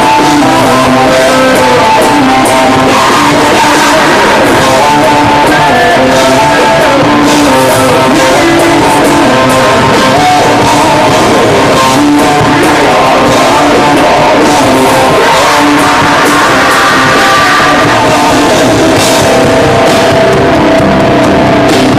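Live heavy metal band playing loud and distorted: overdriven electric guitars, drum kit and vocals, as recorded from the audience.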